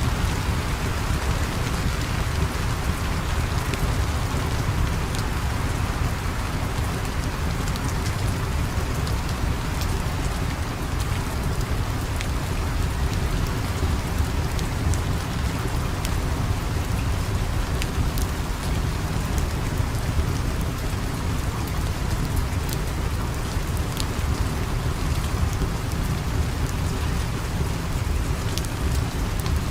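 Steady rain with a deep, even low rumble, and faint scattered crackles of a fire.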